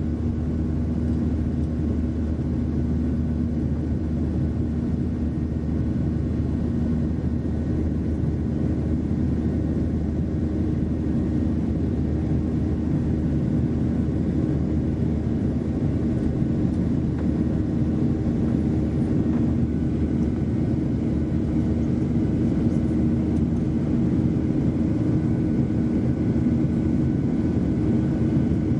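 Jet airliner's engines and airflow making a steady drone with a constant low hum, growing slightly louder toward the end.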